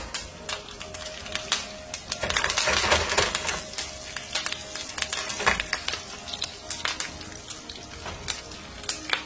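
Fresh curry leaves, cumin seeds and sliced garlic crackling and spitting in hot oil in a frying pan: a sizzle full of sharp pops, busiest about two to three seconds in. This is the tempering (chhaunk) for a dal.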